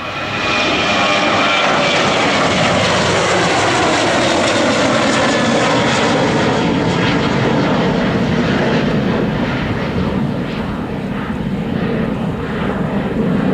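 An airplane passing close by with its engines running loud. The engine tones slide steadily downward in pitch as it goes past, and the sound eases off somewhat in the last few seconds.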